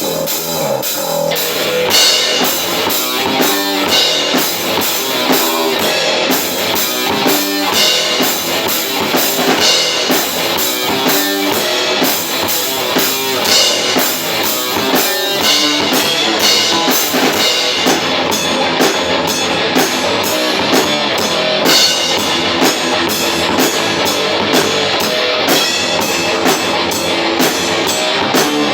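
Metal band playing live in rehearsal: a drum kit with steady bass drum and constant cymbal hits drives under guitars and bass. The drums come in right at the start, joining a guitar that had been playing alone.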